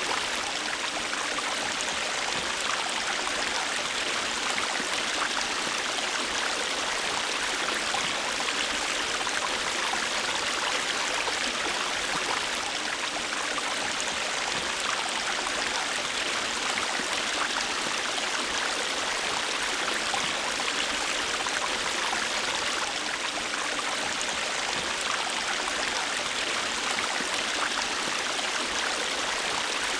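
River water flowing steadily: an even, unbroken rushing sound, mostly in the higher range, with no lulls or separate splashes.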